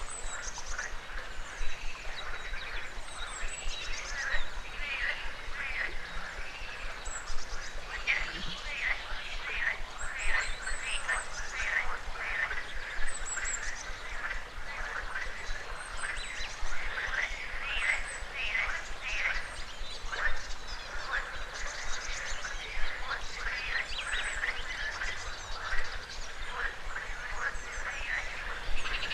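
A dense chorus of frogs croaking continuously, many short calls overlapping, with short high bird chirps over it now and then.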